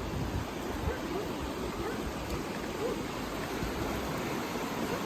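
Rain-swollen creek rushing fast and steady in flood, a small creek that usually barely flows now running high.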